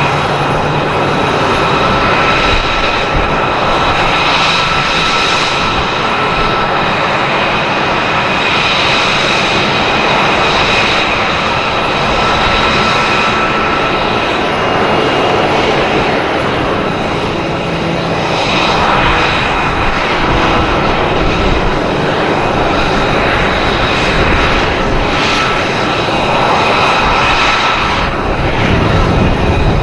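F-22 Raptor's twin afterburning turbofan jet engines in flight, a loud continuous roar with a high steady whine, swelling and fading in several waves as the jet manoeuvres.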